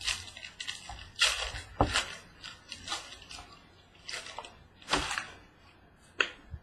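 Trading-card box packaging being opened and handled: a series of short rustling, crinkling bursts.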